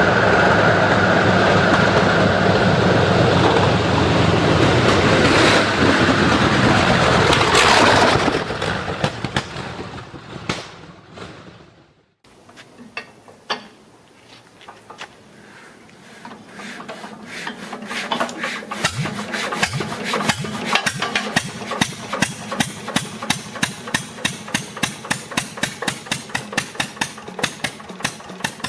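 The Brutus car's big engine running loudly, fading away. Then a Deutz MAH 516 stationary engine starts: a few knocks, then evenly spaced firing beats that grow louder and settle into a steady rhythm of about four a second.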